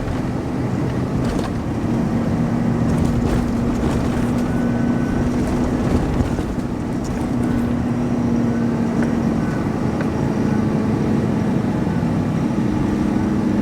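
4WD pickup truck driving over soft sand on aired-down mud tyres: steady engine drone with a constant hum over tyre and road noise.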